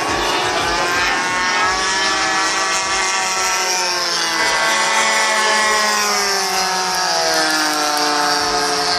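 Several RC warbird models with DLE 20cc single-cylinder two-stroke gasoline engines flying overhead at once, their engine notes overlapping and rising and falling in pitch as the planes pass. One note falls steadily through the last few seconds.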